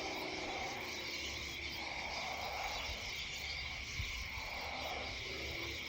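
Insects, crickets by the sound, trilling as one steady high note, with a single soft knock about four seconds in.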